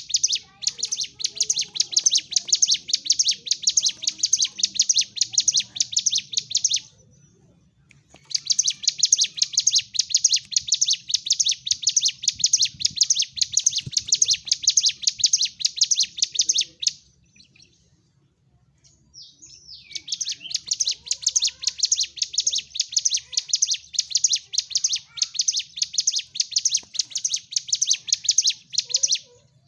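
Ciblek gunung, a prinia, singing in aggressive fighting mode: rapid runs of sharp, high repeated notes in three long bursts with brief pauses between them.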